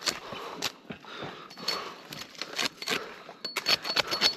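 A quick, irregular run of sharp clicks and snaps, with a faint high repeated tone near the end.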